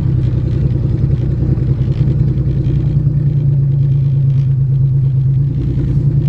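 Car engine running steadily while the car is driven, with road noise; the engine note rises slightly about two seconds in and eases back down near the end.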